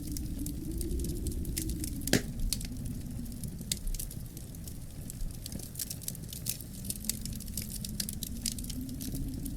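Wood fire in a fireplace crackling, with irregular sharp pops over a low steady rumble of the flames and one louder pop about two seconds in.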